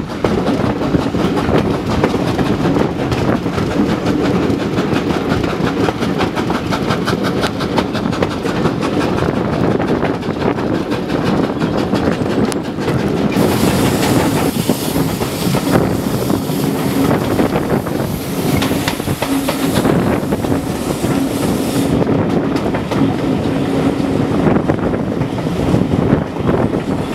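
Steam-hauled passenger train running along the line, heard from a carriage window: a steady rumble with the clickety-clack of wheels over the rail joints. A brighter rushing hiss joins for several seconds in the middle.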